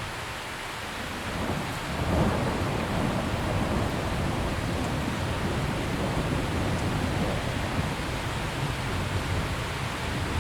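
Steady heavy rain hiss. About two seconds in, a low rumble of thunder swells in and rolls on under the rain.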